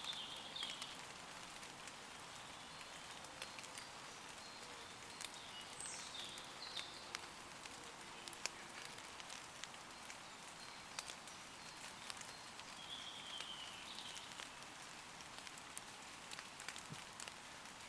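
Light, steady rain falling on leaves, with many small sharp drop ticks. A few short bird calls sound faintly over it: near the start, about six seconds in, and a falling call about thirteen seconds in.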